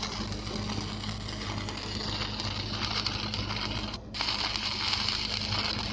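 Electric welding arc crackling steadily on a pipe weld, over the steady hum of the welding machine. About four seconds in the arc breaks off for a moment and is struck again at once.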